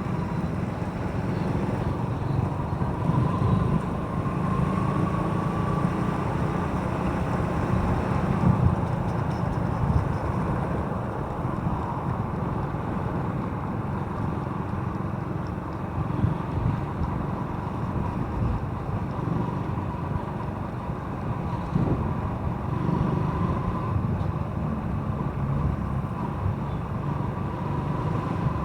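Motorcycle riding along, its engine running steadily with a faint whine that wavers up and down, under a low wind rumble on the microphone.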